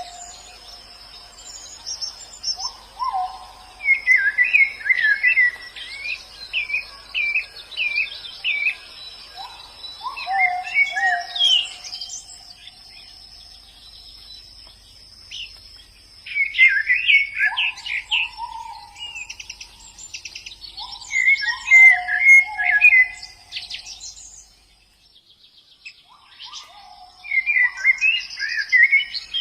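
White-eyes (pleci) singing: rapid twittering phrases in bursts of a few seconds, with lower slurred whistled notes between them and a steady high thin tone underneath.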